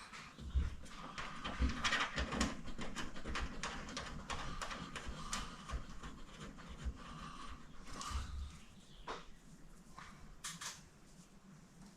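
Irregular small clicks, taps and rustling of hands working up under a truck's headliner, starting the nuts on the cab roof marker lights.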